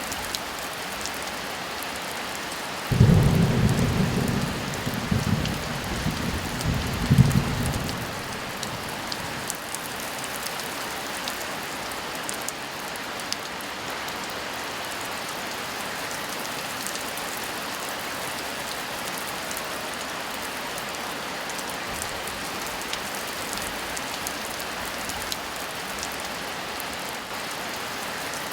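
Steady rain, with a roll of thunder about three seconds in. The rumble lasts about five seconds, swells again near the seven-second mark, then fades back under the rain.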